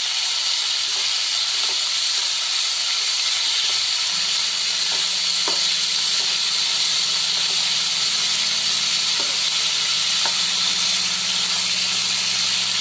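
Potato chunks sizzling steadily in hot oil in a nonstick pan, with a few light scrapes as a steel ladle turns them. They are being shallow-fried until they start to turn reddish.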